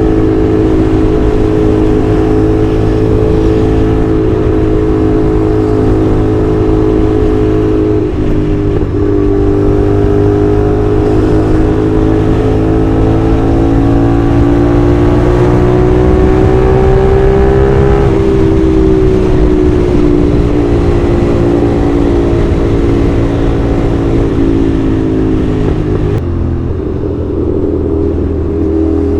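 CFMOTO 450SR's 270°-crank parallel-twin engine running under way at a fairly steady speed. Its note climbs slowly for about ten seconds, then eases back down, and changes abruptly near the end.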